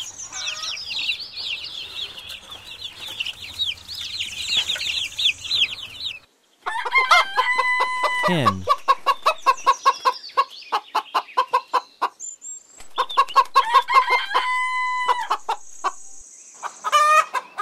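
Domestic chicks peeping rapidly and continuously for about six seconds. After a brief break, a hen clucks in quick repeated notes, with a few longer drawn-out cackles.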